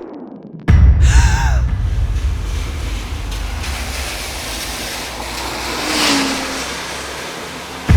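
A train running at speed: a loud, steady rushing noise over a deep rumble that cuts in suddenly about a second in.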